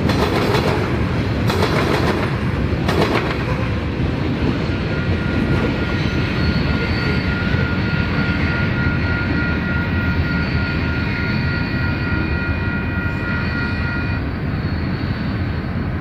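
Freight train of covered hopper cars rolling past, with a steady rumble of wheels on rail and a few clunks over rail joints in the first three seconds. From about five seconds in, a high ringing of several tones joins the rumble and stops a couple of seconds before the end.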